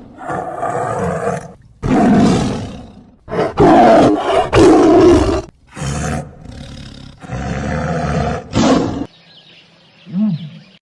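A big cat roaring: a series of long, rough roars one after another, with a quieter call near the end.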